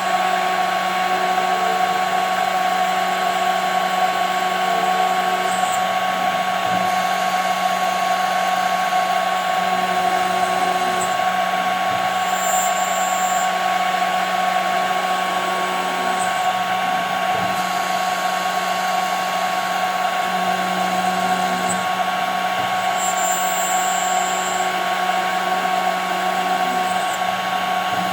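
CNC router spindle running at speed with a steady high whine over a low hum, milling 5 mm plexiglass, with a few faint short high squeaks from the cut.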